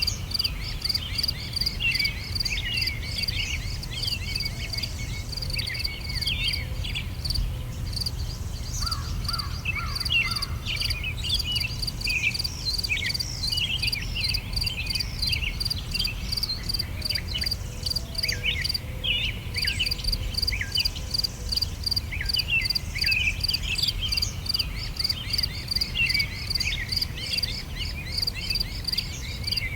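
Summer outdoor ambience: insects, likely crickets, chirping in a steady, evenly pulsed high trill, with songbirds calling in many short, quick phrases over it. A low, steady rumble runs underneath.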